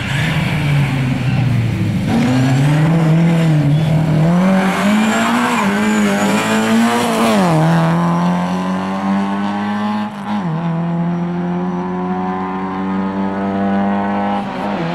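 Lada rally car's four-cylinder engine at high revs. It climbs in pitch and drops sharply at each gear change, about three times, as the car accelerates away.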